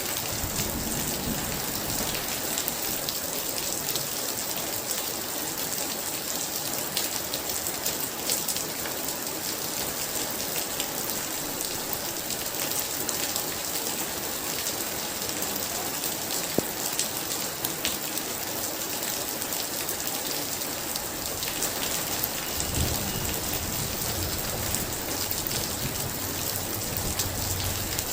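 Heavy rain pouring steadily, with a low rumble of thunder about a second in and again from about two-thirds of the way through.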